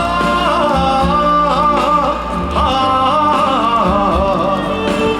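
Live trot band playing an instrumental fill between sung lines: a wavering lead melody with heavy vibrato over steady bass and drums.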